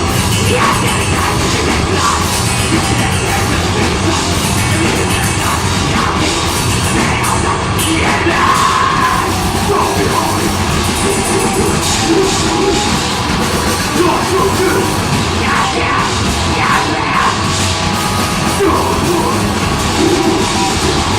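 Deathgrind band playing live at full volume: dense, distorted heavy music without a break, with harsh yelled vocals coming in and out.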